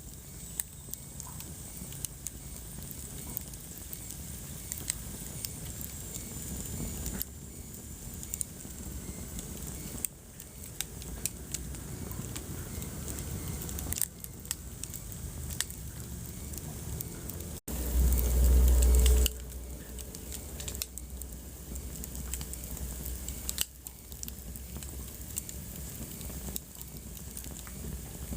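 Wood fire crackling in a fireplace: frequent sharp pops and snaps over a low rumble of the flames. A bit over halfway through, the sound drops out for an instant and a loud low rumble follows for about a second and a half.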